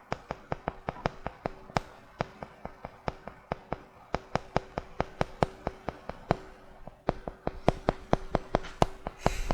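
Magnetic checkers pieces clicking and tapping in a quick, rhythmic run of sharp clicks, about five a second. A brief louder rustle comes near the end.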